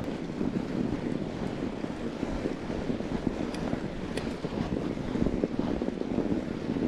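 Steady wind noise buffeting the microphone during a fat-bike ride on a snowy trail, a low rushing rumble with a couple of faint ticks in the middle.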